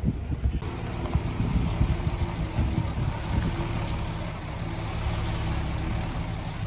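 Heavy diesel engine of earthmoving machinery running steadily, with a few knocks.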